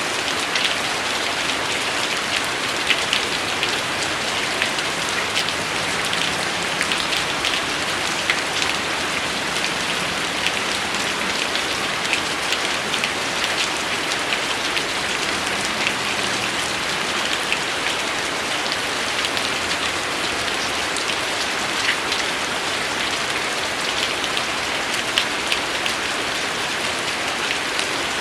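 Steady rain falling on a hard surface, an even hiss with many separate drops ticking sharply through it.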